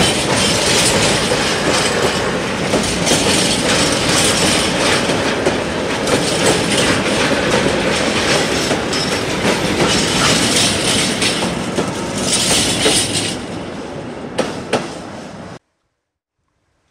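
Freight train of tank wagons rolling past close by, the wheels clattering over the rails. The noise eases off with a couple of sharp clicks near the end, then cuts off suddenly to silence.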